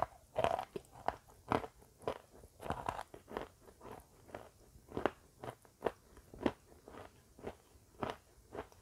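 Close-miked chewing of a crunchy snack, with a steady run of crisp crunches at about two a second.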